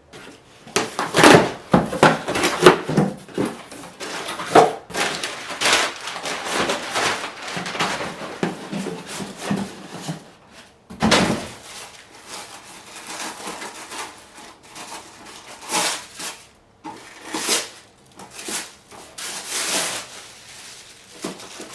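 Hands handling the camera gear and its packaging: irregular rustling, clicks and knocks, with a sharper knock about halfway through.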